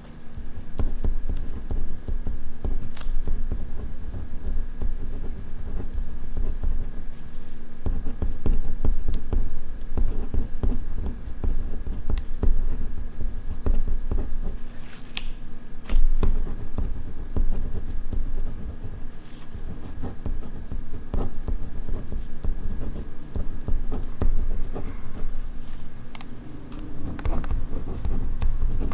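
Ballpoint pen writing on paper, close-miked: continuous scratching strokes with small taps and clicks between them.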